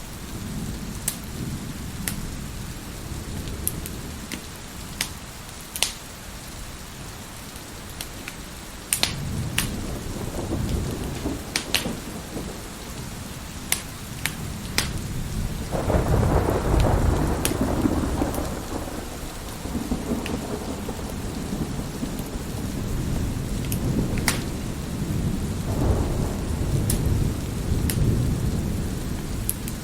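Steady rain with rolling thunder rumbles, the loudest a little past halfway through, while a wood fire crackles with scattered sharp pops.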